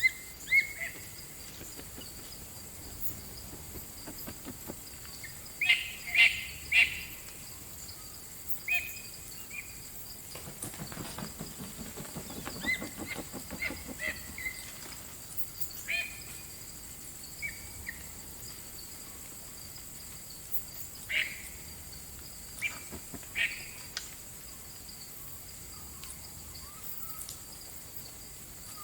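Natural ambience: insects trilling steadily at a high pitch, with scattered short bird chirps, the loudest a quick run of three about six seconds in. A low rasping sound comes a little past ten seconds.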